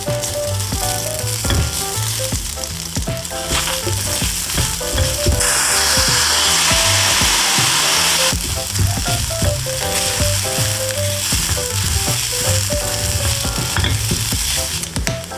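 Brown rice and scrambled egg frying in a hot pan, stirred with wooden chopsticks. About five seconds in, a spoonful of soy sauce hits the pan and sets off a much louder sizzle lasting about three seconds. Light background music plays throughout.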